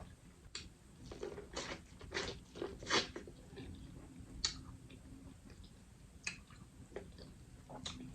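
Close-miked eating sounds: a person chewing and biting corn on the cob, with scattered wet clicks and smacks, the loudest about three seconds in.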